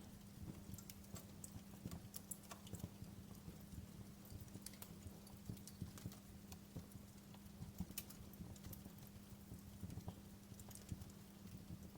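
Wood fire crackling: irregular sharp pops and snaps, several a second, over a low rumble, with a steady low hum underneath.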